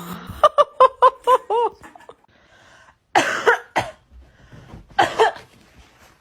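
Small dogs yapping: a quick run of about six high, rising-and-falling yips, then two harsher barks about two seconds apart.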